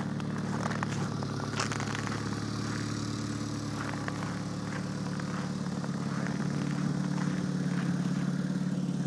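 1993 Nissan Altima's 2.4-litre four-cylinder engine running steadily, most likely idling, with scattered small clicks and crunches over it in the first few seconds.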